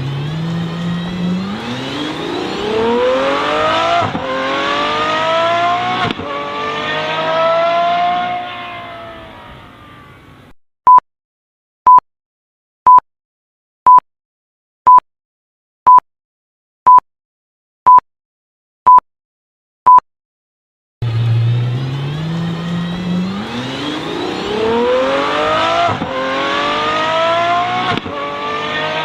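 A performance car's engine accelerates hard, its pitch climbing through several upshifts before fading away. Then come ten short, loud, identical beeps, one a second, like a countdown timer. After a second of silence, another car's engine starts accelerating with rising pitch.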